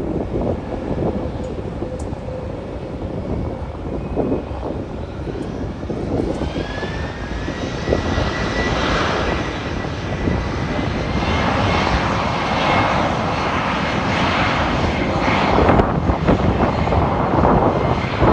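A jet airliner passing, its engines making a rumble that grows louder toward the end. A high whine rises in pitch about six seconds in and then holds steady.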